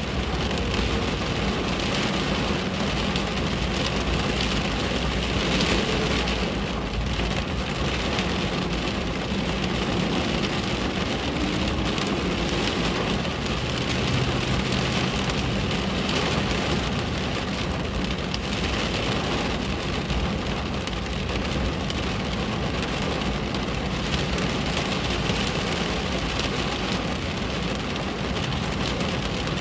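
Steady rain falling on a window pane, an even hiss of drops with no break.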